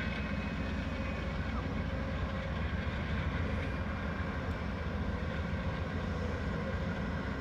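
Amtrak Winter Park Express train's diesel locomotives running with a steady low rumble and a faint steady hum above it.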